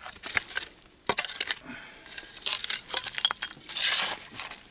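Old glass bottles clinking and knocking against each other as they are handled, a few clinks briefly ringing, with short scraping rubs in between.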